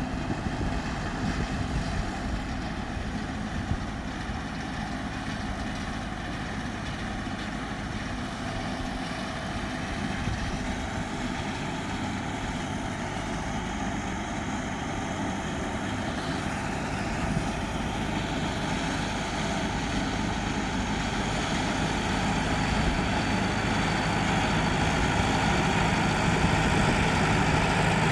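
Tractor engine running steadily while powering a B70 round baler at work, the baler's machinery turning with it; the sound grows gradually louder over the second half.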